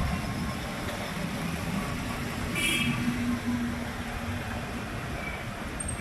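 Street traffic: steady engine and road noise. A brief high-pitched sound comes just before three seconds in. A vehicle horn follows, held for over a second.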